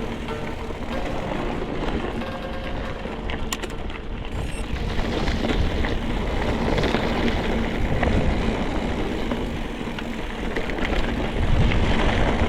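Mountain bike descending rocky singletrack: wind rumbling on the microphone, with tyres crunching over rock and the bike rattling in short knocks.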